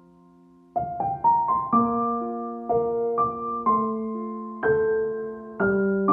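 Soft solo piano music: a held chord dies away, then about a second in a new phrase of single struck notes and chords begins.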